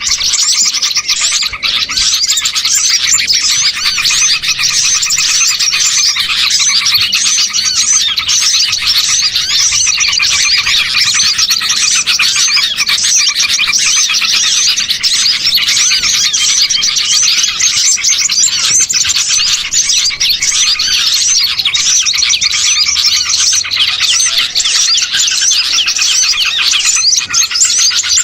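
Dense, unbroken chorus of many small songbirds chirping and trilling over one another, a layered bird-lure (pikat) recording made to draw small wild birds in.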